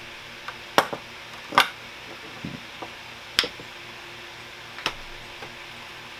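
Hammering blows on a plug lodged in a desk fan's plastic insert, struck to knock it loose: about five sharp, irregularly spaced hits with a few lighter taps between them.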